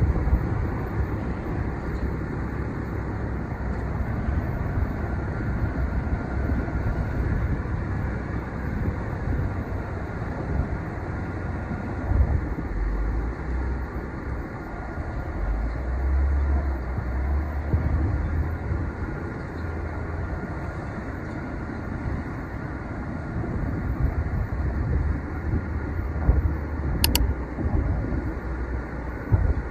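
Steady low rumble of a cargo ship's engine as it passes on the river, with a short sharp tick near the end.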